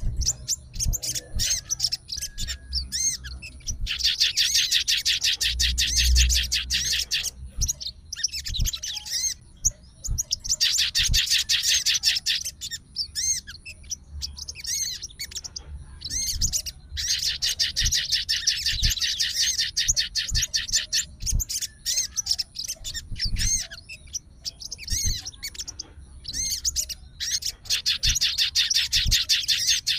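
Sogon songbird singing in full voice: long, very rapid chattering trills a few seconds each, repeated about half a dozen times with short chirps between them.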